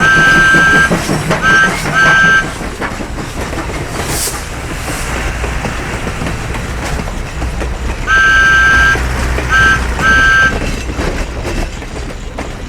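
Train horn sounding two-note blasts in a long-short-long pattern, then again about eight seconds in, over a steady low rumble.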